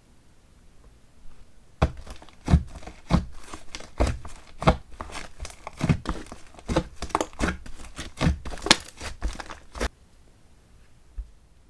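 Slime being squished and played with by hand, giving a quick, irregular run of wet pops and crackles that starts about two seconds in and stops about two seconds before the end.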